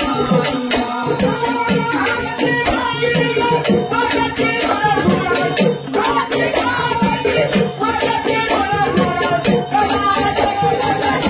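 Traditional Marathi gondhal devotional song for Khandoba: folk music with dense, steady hand percussion and jingling, rattling strokes under a melody line.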